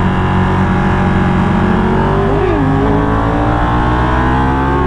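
Motorcycle engine running under way at steady cruising revs, its pitch creeping slowly upward through the second half, with a brief rise and fall in pitch a little past halfway.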